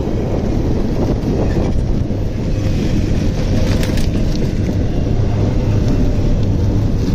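Steady low rumble of a double-stack intermodal freight train rolling past, mixed with the road noise of a small electric three-wheeler riding alongside it.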